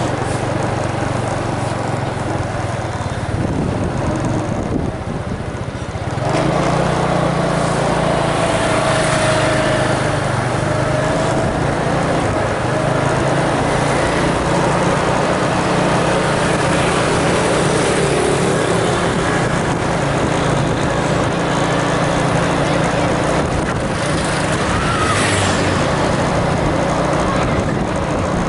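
An engine running steadily. It eases off briefly about four seconds in, then picks up again about six seconds in and holds.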